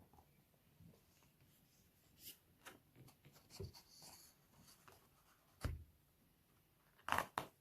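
Faint paper rustling and handling as a book's pages are turned. There is a low thump about halfway through and a louder rustle near the end.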